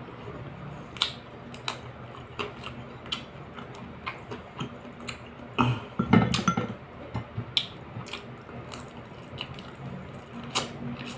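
Close-up eating sounds of a man chewing fish and rice he eats by hand: irregular wet mouth clicks and lip smacks, with a louder cluster about six seconds in.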